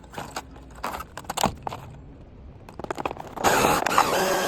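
Plastic tool packaging being pulled and torn open by hand. Scattered clicks and crackles build to a loud burst of crinkling and tearing in the last second or so.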